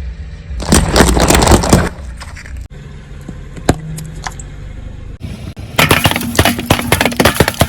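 Brittle objects crunching and cracking as they are crushed under a car's wheel. There is a spell of crackling about a second in, a single sharp snap midway, and dense rapid crackling from about three-quarters of the way through.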